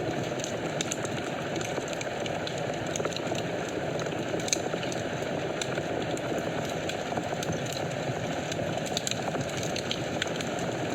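Wood fire burning in a fireplace: a steady low rush of flames with frequent small crackles and pops, one sharper pop about four and a half seconds in.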